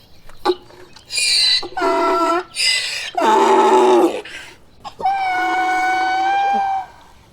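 Donkey braying: alternating high and lower hee-haw calls, then one long held call near the end.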